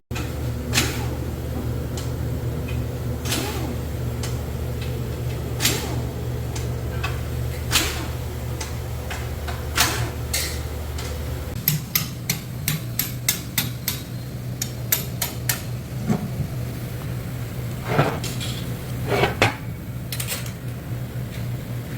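Sharp metallic knocks from hand tools on metal, one every couple of seconds, then a quick run of light clinks about halfway through, over a steady low mechanical hum whose deepest part stops at that point.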